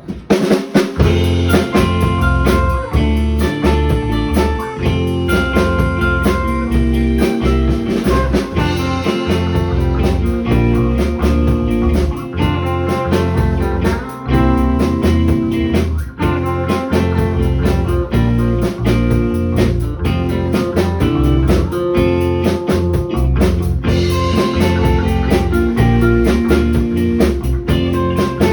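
A band playing live: a Hallmark electric guitar over a drum kit, with steady drum hits throughout.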